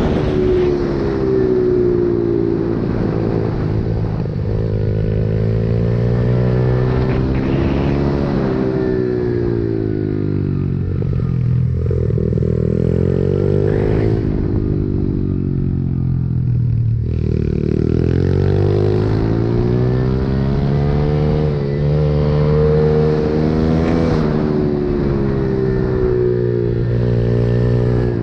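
Pit bike engine being ridden hard, revving up and easing off again and again, its pitch climbing and falling over a few seconds each time and dropping lowest about halfway through before climbing again.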